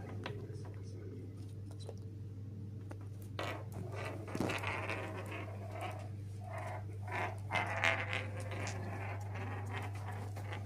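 Pet conure chattering in irregular, varying bursts, starting a few seconds in, over a steady low hum. A few faint clicks come before it.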